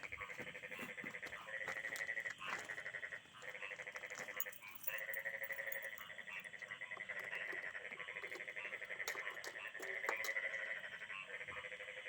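Frogs calling in a chorus: overlapping rapid pulsed trills, each lasting a second or two, one after another without pause.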